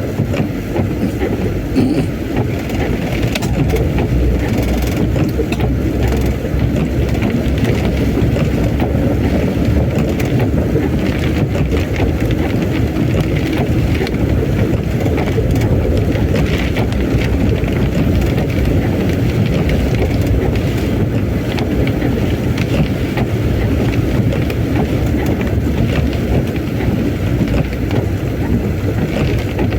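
Steady rumbling wind noise on the microphone mixed with a moving vehicle and heavy rain, continuous and unbroken.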